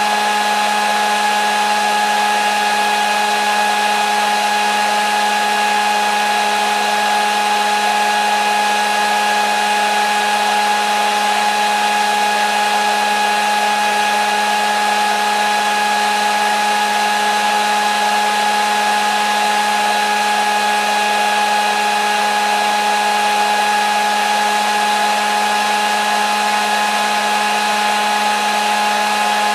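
Hair dryer running continuously at a constant speed: a steady rush of air with a motor hum and a high whine, never changing.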